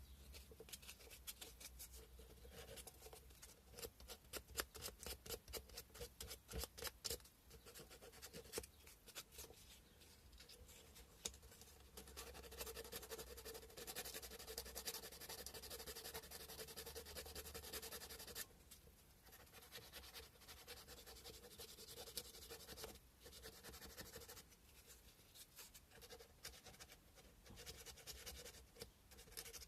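Sandpaper rubbed by hand against a carved cow-bone fish hook, faint and scratchy: quick short back-and-forth strokes at first, then longer, steadier rubbing broken by a couple of brief pauses.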